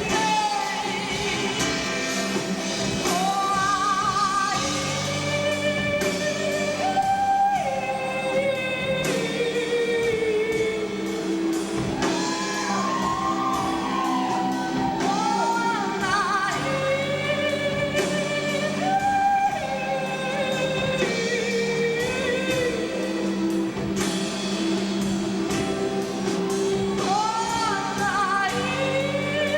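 Live band playing with a lead singer: a wavering sung melody over sustained bass notes and a steady drum beat.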